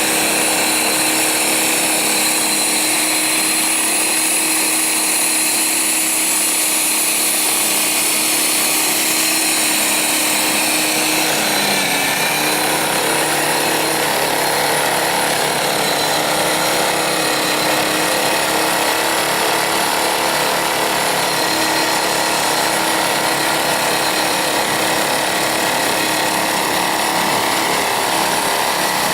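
Blizzard EX1600win battery-electric snowblower running: a steady electric-motor whine with the whirr of the auger, its tone shifting about twelve seconds in.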